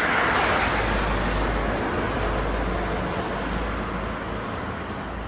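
A car driving past close by, its tyre and engine noise loudest at first and fading away.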